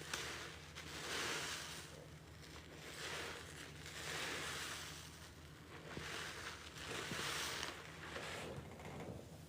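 A water-soaked sponge squeezed again and again, water pouring out of it in splashy gushes, one about every second and a half, over a low steady hum.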